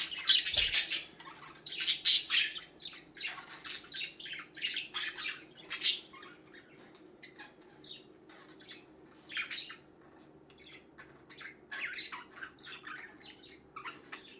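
Several pet budgerigars chattering, with quick bursts of high chirps and squawks, busiest and loudest in the first six seconds, then sparser.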